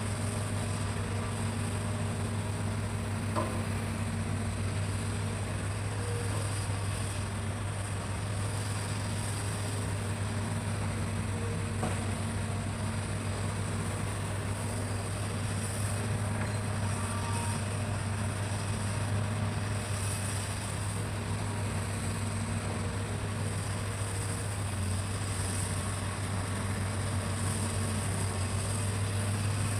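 Hitachi excavator's diesel engine running at a steady pitch, a continuous low drone.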